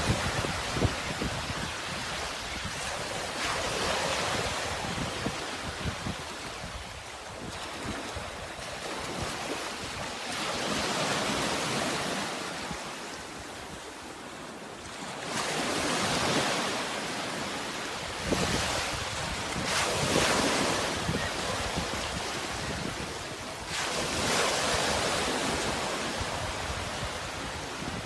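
Sea waves washing in, a rushing hiss that swells and ebbs every few seconds as each wave comes in and draws back.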